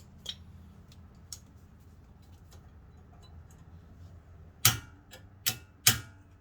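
Faint scattered ticks, then three sharp metallic clicks close together about four and a half seconds in, from tools and brake parts being handled during a front brake pad job.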